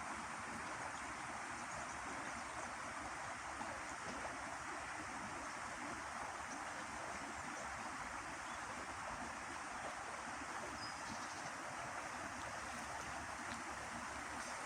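Steady rushing noise of running water, even throughout, with a few faint short high chirps now and then.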